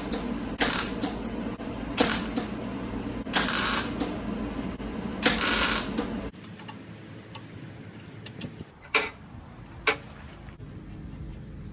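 Welder laying short weld bursts on the broken mower part: four brief bursts of arc noise over a steady hum in the first six seconds. The hum stops partway through, and a few sharp clicks follow near the end.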